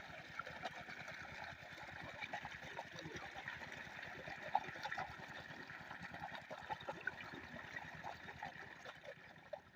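8 hp single-cylinder diesel water pump set running steadily with a fast, even chug, and water splashing from the outlet; the sound fades out near the end.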